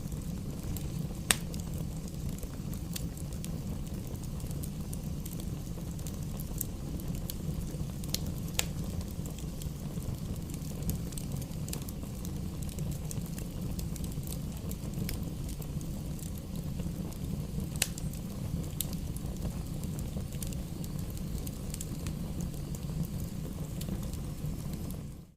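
Wood campfire burning: a steady low rumble of flames with sparse, sharp crackles and pops from the burning wood. The sound cuts out briefly at the very end.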